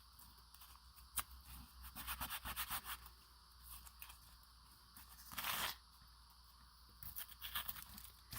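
Masking tape pulled off the roll and torn: a quick crackling run of short rips about two seconds in, one longer, louder rip a little past five seconds, and more crackles near the end, with a sharp click just after one second.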